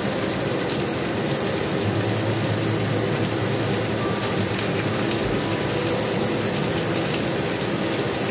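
Bell pepper pieces sizzling in hot oil in a stainless steel wok, a steady hiss.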